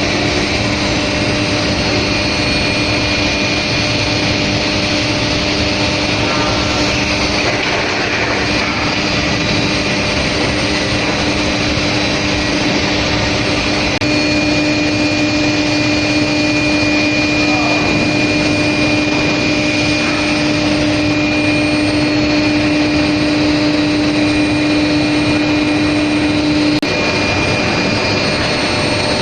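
Medium-frequency steel plate induction heating furnace line running: loud, steady industrial noise with a steady low hum and a higher whine. The hum grows stronger about halfway through and cuts off shortly before the end.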